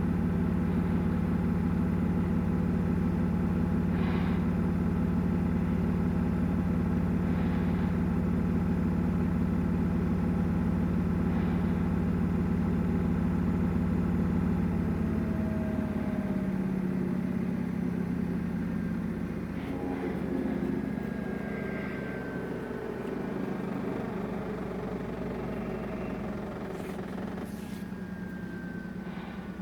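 Samsung WW900 front-loading washing machine's drum spinning at speed with a steady motor hum. From about halfway it starts to slow down, the hum easing off with a faint falling whine.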